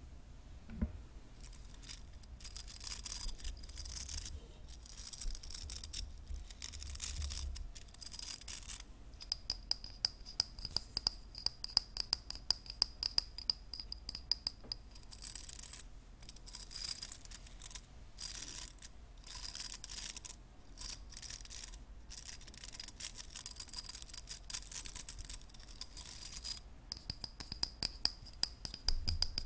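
Hair brushes being scratched and brushed in repeated short hissing strokes, with a stretch of quick, close ticking clicks in the middle.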